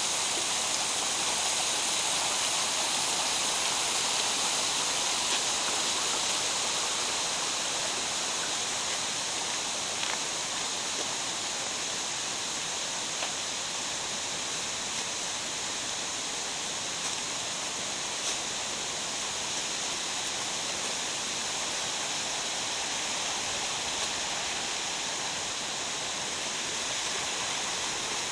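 Mountain stream in a gorge rushing steadily, with a few faint clicks over it.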